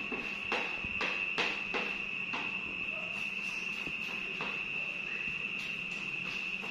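Steady high-pitched insect trill, with a run of light clicks and knocks during the first half.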